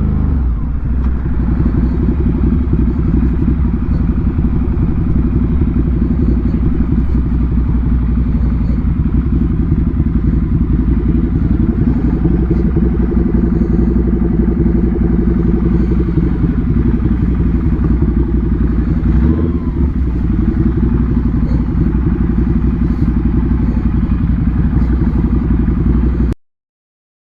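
2018 Ducati Monster 797's air-cooled L-twin with an SC Project aftermarket exhaust, running steadily at low revs after dropping back from higher revs at the very start. The sound cuts off suddenly near the end.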